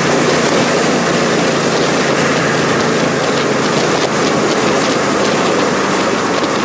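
The 700-plus-PS V8 of a CN Cobra roadster running steadily at cruise, heard from inside the open cockpit under a heavy rush of wind.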